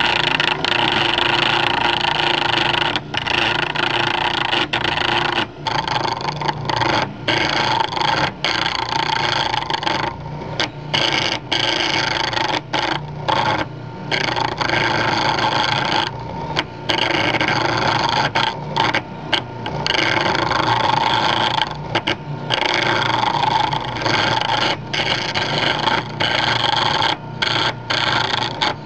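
A chisel scraping and cutting wood spinning on a homemade lathe driven by a salvaged sump pump motor, over the motor's steady hum. The scraping breaks off briefly many times.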